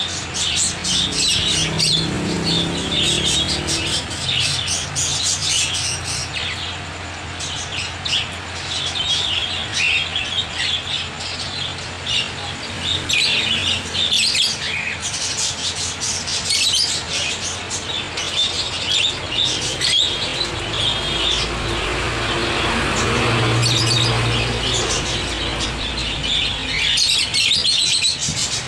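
Many caged pet birds, such as ring-necked parakeets, cockatiels and budgerigars, chirping and squawking at once in a dense, continuous chatter. A low hum rises under them about two-thirds of the way through.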